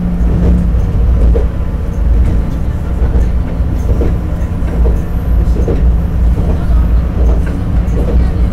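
Diesel railcar running along the track, heard from inside: a steady low engine and running rumble with a held drone. Wheels click over the rail joints about once a second.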